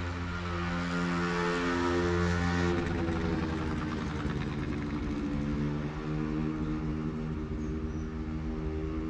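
ETR 470 Pendolino passenger train passing through the station: a steady hum of several tones from its running gear, which step to new pitches about three and five seconds in, over the rush of its wheels on the rails, loudest in the first three seconds.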